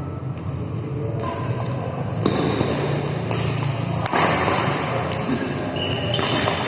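Badminton being played in a hall: the shuttlecock struck back and forth with rackets, with footfalls and court noise echoing, and a couple of sharper hits.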